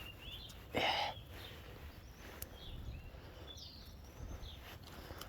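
Small songbirds chirping now and then with short calls sliding up and down in pitch. About a second in there is a brief, louder rustling noise.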